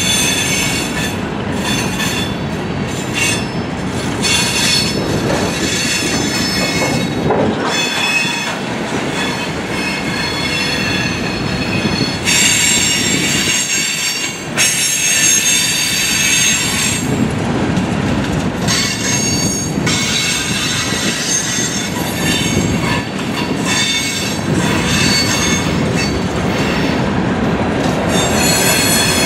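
Freight cars of a passing freight train (tank cars, covered hoppers, boxcars) rolling by over a steady rumble of wheels on rail, with wheel squeal: high ringing tones that come and go in stretches of a few seconds.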